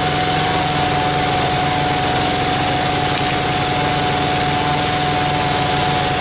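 Power tiller's single-cylinder diesel engine running steadily, with a constant high whine over the drone.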